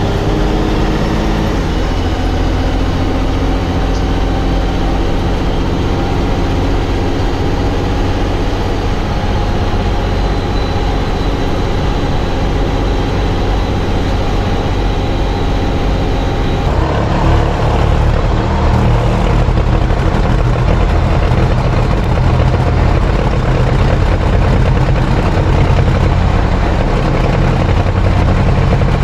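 Racing truck engine running hard and steady. The engine note changes abruptly about seventeen seconds in.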